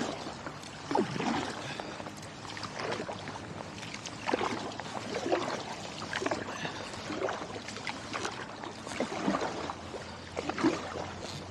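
Kayak paddle strokes dipping into and splashing the river water, about one stroke a second, over a steady trickle of water.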